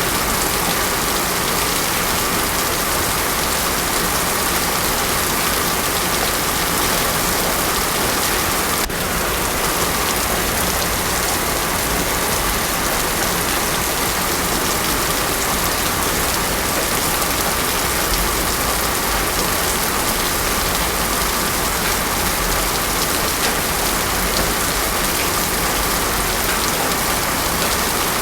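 Heavy rain pouring steadily onto a road surface, a dense even hiss with no thunder.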